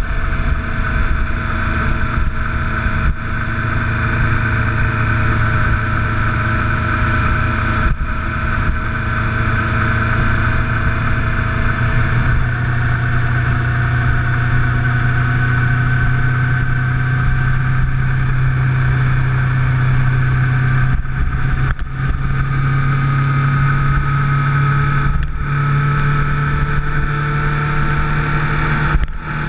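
Motorcycle engine running under way at a steady cruise, its note drifting slowly up and down, with a few brief drops in the note in the last third.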